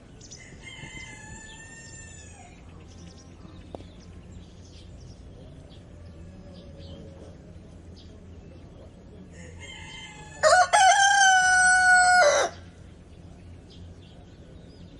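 A rooster crowing: a fainter crow of about two seconds near the start, then a loud, long crow about ten seconds in, rising at its onset and then held before cutting off.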